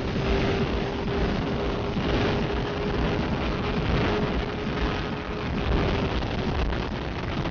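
Yamaha R6S's 600 cc inline-four sport-bike engine running at a steady high-speed cruise under heavy wind rush, its pitch sagging slightly near the end.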